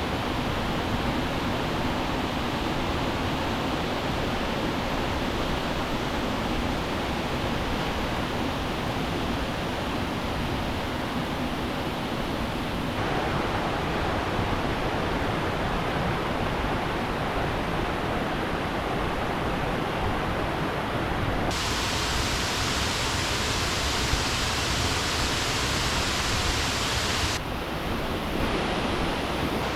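Steady rush of river water, its tone shifting abruptly a few times to a brighter, hissier sound and back.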